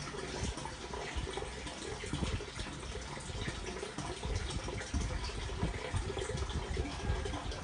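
Running water, with scattered low knocks and thumps.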